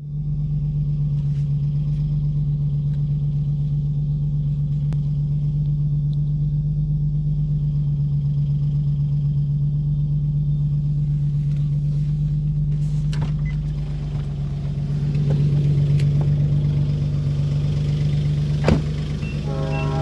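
2007 Infiniti G35x's 3.5-litre VQ35HR V6 idling steadily with an annoying knocking sound, which the owner suspects comes from the timing chain tensioner. A single sharp click near the end.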